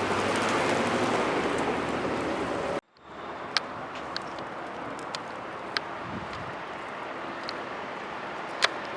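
2019 Corvette Z06, supercharged 6.2-litre LT4 V8, driving: steady engine and road noise. It cuts off abruptly about three seconds in, then a quieter steady road rumble follows, with scattered light ticks.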